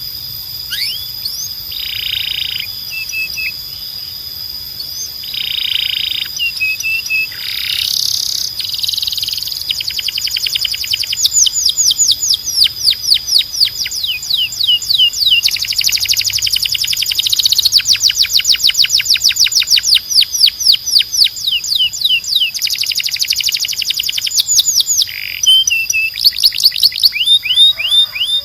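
Canary singing a long, loud song of rapid trills: runs of fast repeated chirp notes, broken by short buzzy phrases and held over a steady high whistle-like tone.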